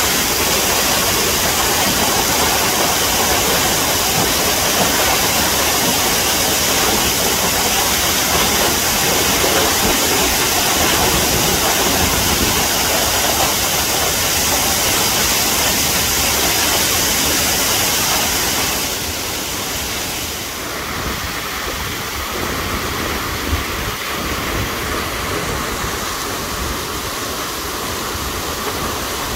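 Waterfall rushing: a steady wash of falling water that turns a little quieter about two-thirds of the way through.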